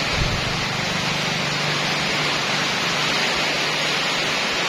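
Heavy rain pouring steadily onto leaves and the roof, a dense, even hiss.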